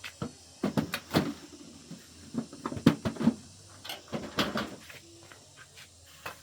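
Irregular knocks and clatters, some in quick pairs, loudest around the middle, as objects are handled and set down.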